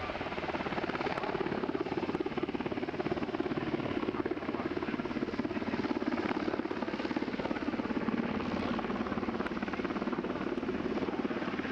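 Military helicopter rotors beating with a fast, even chop and engine hum, steady throughout.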